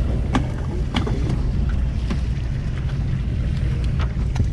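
Steady low rumble of a sportfishing boat's engine, with scattered sharp clicks and knocks on deck.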